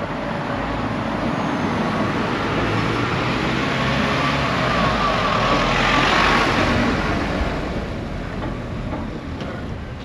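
A train passes along the seafront railway line. The noise builds to its loudest about six seconds in, with a faint squeal near the peak, then fades away.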